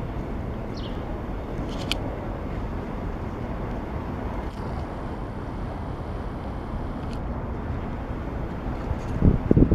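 Steady outdoor wind and rain noise, with a few short clicks about two seconds in and gusts buffeting the microphone near the end.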